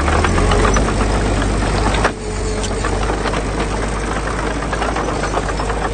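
Diesel engine of a heavy construction machine running, with dense clattering and rattling over a steady low hum, briefly dipping about two seconds in.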